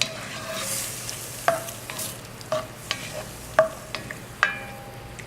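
A spoon stirring a creamy sauce in a pan on the heat, over a faint steady sizzle. The spoon clinks against the pan several times at irregular intervals, each clink ringing briefly.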